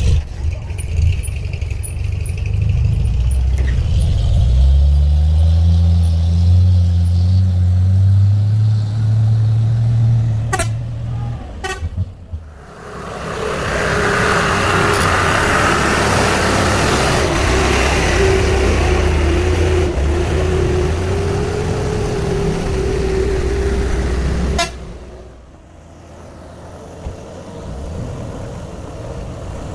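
Heavy vehicle engine labouring under load on a steep climb, its pitch rising over several seconds. After a brief lull comes a louder, noisy stretch with a long steady horn blast of about ten seconds that cuts off suddenly.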